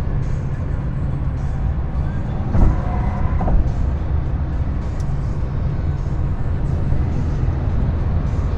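Steady engine and road rumble inside a moving truck cab. Just under three seconds in, a brief steady tone sounds for under a second.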